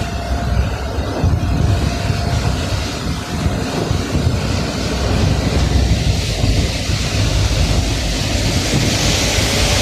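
Vehicle driving, a steady low rumble of engine and road noise, with a hiss that swells near the end.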